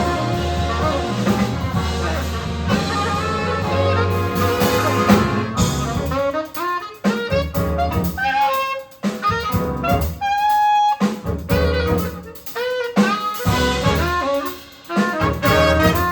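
Big band jazz played live: the full brass and saxophone ensemble for the first six seconds or so, then a single horn carries a solo line over the drums and rhythm section.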